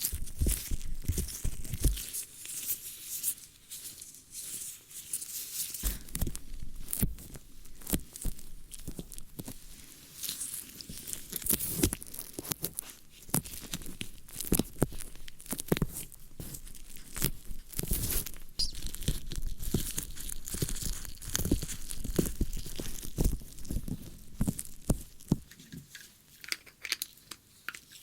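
ASMR ear-cleaning sounds: close-miked scratching and rubbing at an ear, a dense run of irregular crackles, clicks and rustles with low thumps, growing quieter near the end.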